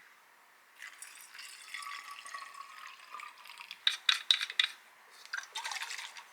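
Liquid being poured into a small container for a couple of seconds, followed by a few sharp clicks and knocks of a container being handled.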